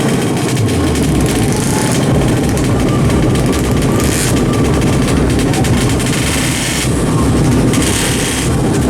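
Two-stroke drag bike engines running. A low, pulsing engine rumble comes in under a second in, over a dense background of noise.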